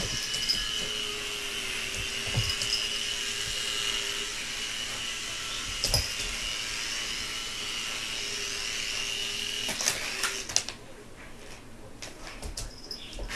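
Toy helicopter's small electric motor whirring with a steady high-pitched whine, then cutting out about ten and a half seconds in. A few sharp knocks come while it runs.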